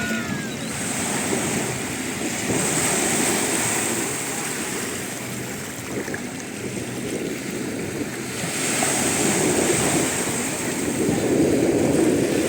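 Sea surf washing in, with wind buffeting the microphone; the rush of water swells and eases in waves.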